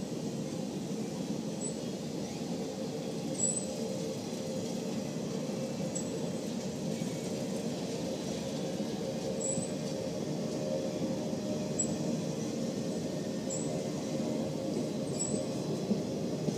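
Train cars rolling past: a steady rumble of steel wheels on the rails, broken by a few short, sharp clicks.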